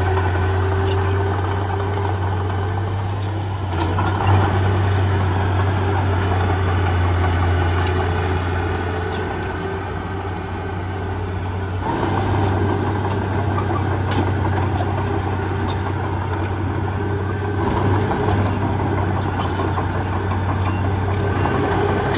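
Heavy diesel engine of earthmoving machinery running steadily under varying load. Its low drone eases off briefly in the middle and picks up again, with faint scattered clicks.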